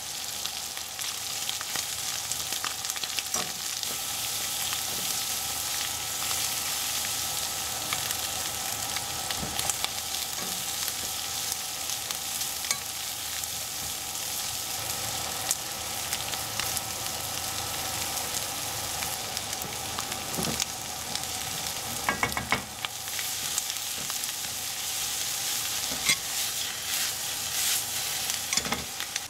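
Sliced smoked duck, leek and onion sizzling in their own fat in a nonstick frying pan, tossed with a spatula that scrapes and knocks against the pan now and then.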